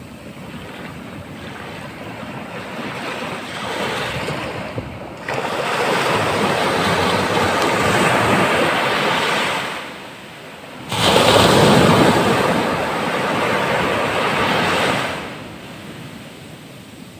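Rough surf at rising tide: ocean waves breaking on the shore, the hiss of the wash building and then two big breakers crashing in suddenly, about five seconds in and again past the middle, each rushing on for a few seconds before falling away.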